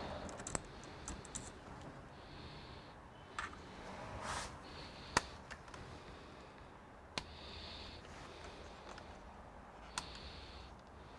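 Scattered sharp clicks, about five spread a second or two apart, with short soft hissing patches between them and a faint steady background: light handling of tools and computer parts.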